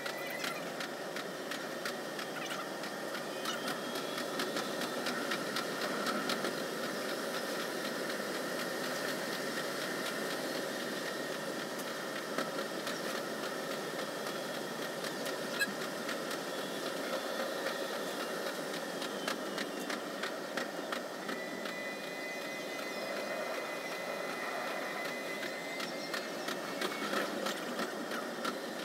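Running noise of a 373 series electric train heard from behind the driver's cab, the wheels clicking over the rails in quick, close-set succession. The sound is sped up along with the fivefold-speed footage.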